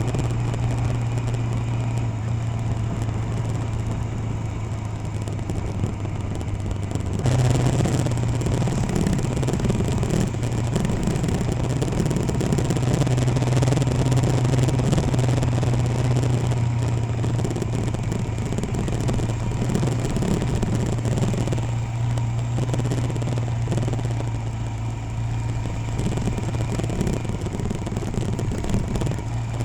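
Royal Enfield Himalayan single-cylinder motorcycle engine running steadily while riding. A louder, rougher noise joins about seven seconds in.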